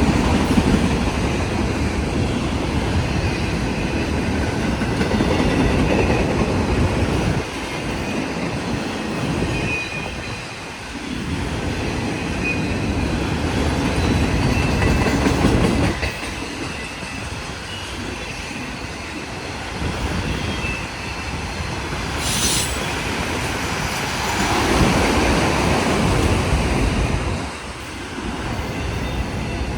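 Union Pacific freight cars rolling past on steel rails: a steady wheel rumble with clickety-clack over the rail joints, swelling and easing every few seconds, with faint wheel squeal. A brief sharp high sound cuts in about three-quarters of the way through.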